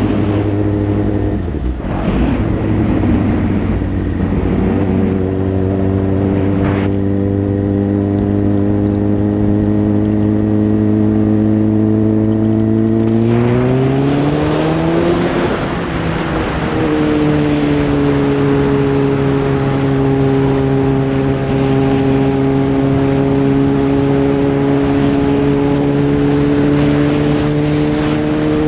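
Suzuki GSX-R 600's inline-four engine running at steady cruising revs under a rush of wind. About halfway through, the pitch rises as the bike accelerates, then drops back with an upshift and holds steady again.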